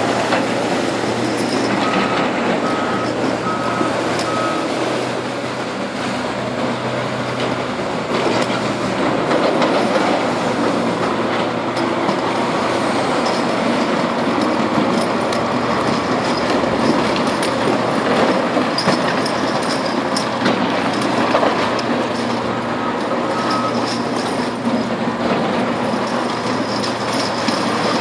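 Heavy earthmoving machine working in a marble quarry, a dense steady run of engine and metal clanking. A reversing alarm beeps four times a few seconds in, and again briefly near the end.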